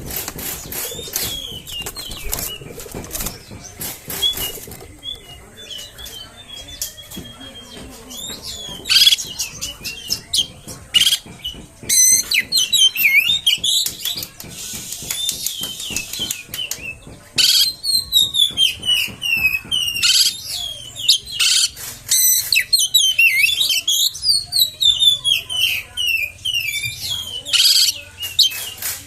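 Oriental magpie-robin (kacer) singing a fast, varied song of whistled notes that rise and fall quickly, mixed with sharp clicks or flutters. It grows louder and denser about a third of the way in.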